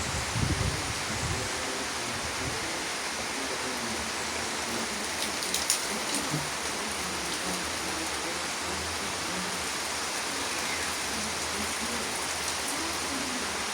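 Steady rain falling, an even hiss of drops on surfaces, with a low thump about half a second in and a few sharp ticks around six seconds in.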